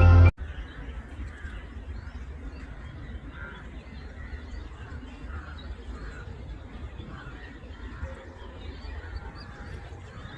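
Background music cuts off abruptly at the very start. Birds then call faintly and repeatedly, short honk-like calls with higher chirps among them, over a steady low rumble.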